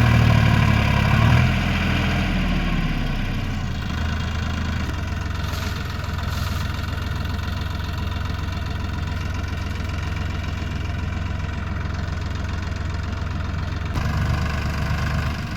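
Heavy diesel engine running at a steady idle. It is louder and uneven for the first two to three seconds, then settles into an even idle, with a brief rise in level near the end.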